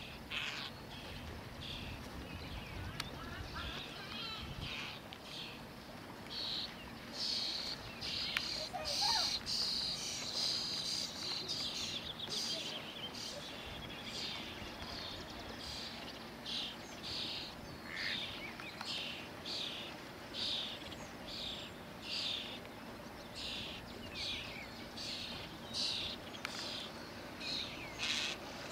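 Birds chirping: short, high chirps repeated about once a second over a steady background hum, with a denser run of chirping about a third of the way in.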